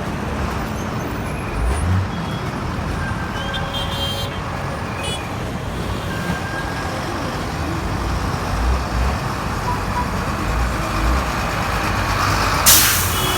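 A bus travelling along the road, with steady engine and road noise and a low rumble. A short high tone sounds about four seconds in, and a sudden short hiss comes near the end.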